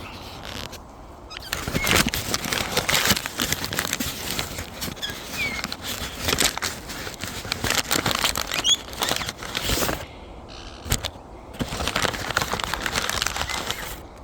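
Parrots gnawing chicken drumstick bones for the marrow: dense, irregular crunching and crackling clicks, easing off for a moment about ten seconds in, with a few brief faint chirps.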